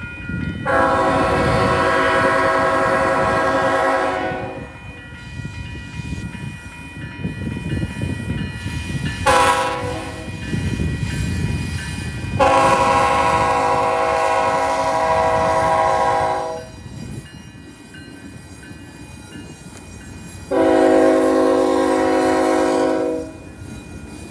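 BNSF freight locomotive's air horn sounding a chord in four blasts for the grade crossing: long, short, long, then a final long blast cut off near the end. A steady low rumble of the train runs beneath.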